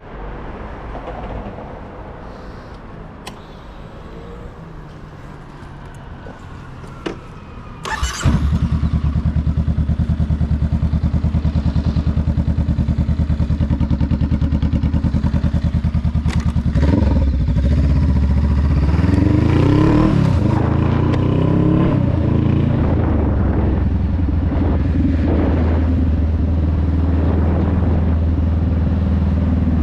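A 2021 Honda Rebel 500's parallel-twin engine starts about eight seconds in after a few clicks, then idles with an even pulse. From about seventeen seconds the revs climb in several rising sweeps as the bike pulls away, then it settles into steady running.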